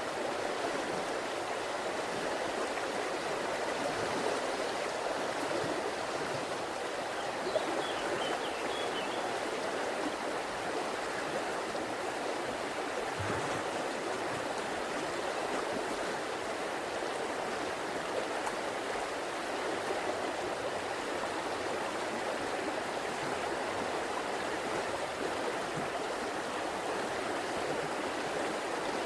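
River water flowing steadily over its bed, an even rushing and burbling without pause.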